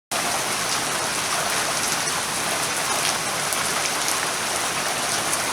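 Steady rain, a dense even hiss with scattered sharper drop ticks, cutting in abruptly right at the start.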